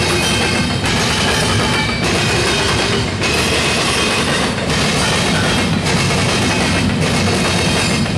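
Loaded double-stack intermodal well cars of a freight train rolling past, their wheels clattering over the rail in a steady rhythm that repeats about once a second.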